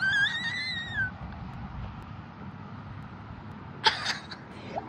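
A bird's single high call, about a second long, rising a little and then falling away. A short sharp sound follows about four seconds in.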